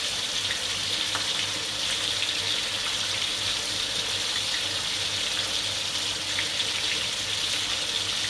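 Steady sizzling hiss of sambal frying in a wok on the stove.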